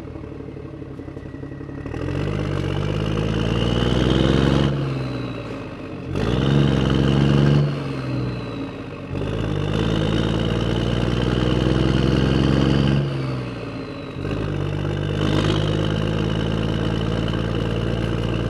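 A handheld power tool's motor running in four long bursts, its pitch climbing and sagging as the load changes. It is driving out the last bolts of the engine's bottom end.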